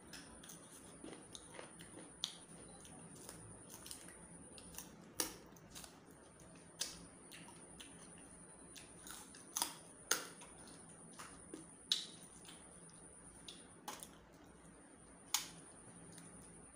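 Close-up eating sounds: a person chewing and biting food eaten by hand, with sharp wet mouth clicks and lip smacks at irregular intervals, a few of them louder. A faint, steady high-pitched whine runs underneath.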